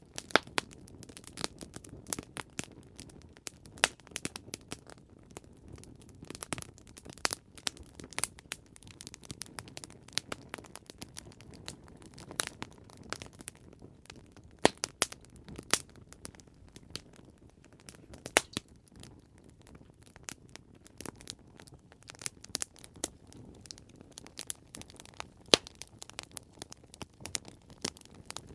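Campfire burning with irregular sharp crackles and pops over a steady low hiss of flames.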